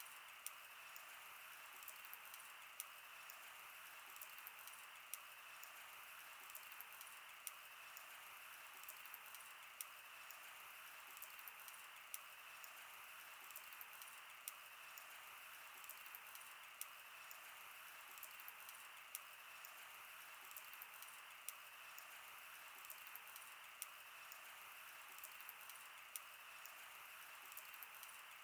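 Wood fire burning: a soft steady hiss with frequent sharp crackles and pops, a few louder ones every second or two.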